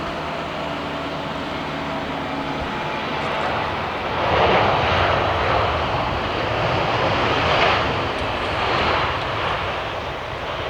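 Airbus A320 jet engines: a steady rumble and whine, then a louder roar swelling about four seconds in and easing off near the end.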